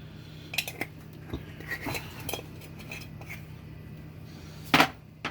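Kitchen utensils and spice containers clinking and knocking as spices are measured out and added to a blender jar: a scatter of small clicks, then one sharp louder knock near the end.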